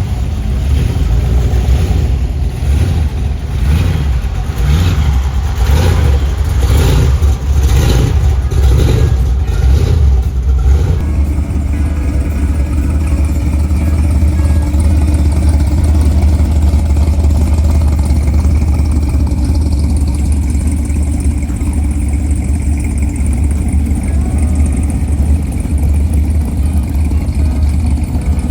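Car engines running and revving as cars drive past, over a steady deep rumble. The sound changes abruptly about eleven seconds in, from pulsing to steadier.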